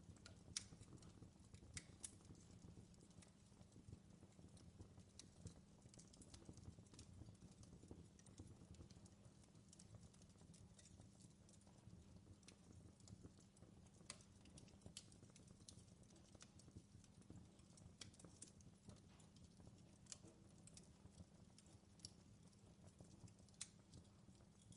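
Faint crackling of a wood fire in a fireplace: irregular small pops and clicks over a low, steady rumble.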